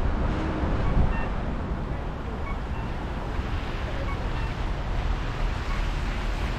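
Road noise from a moving vehicle: a steady rumbling hiss of tyres and wind while driving, a little louder in the first second.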